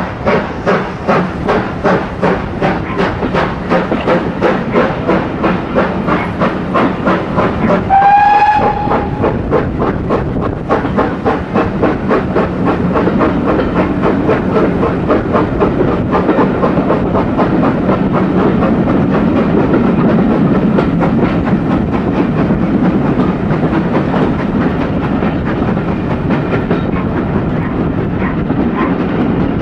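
Steam locomotive working hard, its exhaust beats quickening until they run together as it gathers speed. About eight seconds in it gives one short whistle, lasting about a second.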